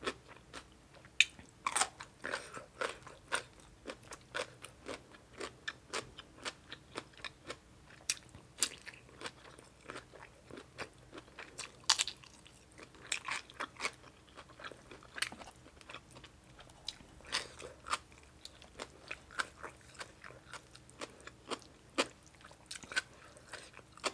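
Close-miked chewing and biting of spicy Thai seafood papaya salad: a steady run of short, crisp crunches and wet mouth clicks, with a few louder bites.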